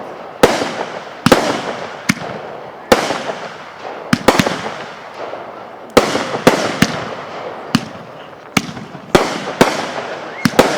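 Consumer fireworks going off in an irregular run of well over a dozen sharp bangs, roughly one to two a second. Each bang trails off as it fades.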